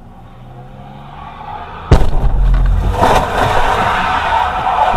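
Car driving with steady engine and road noise, then a sudden loud bang about two seconds in, a vehicle collision, followed by loud continuing noise.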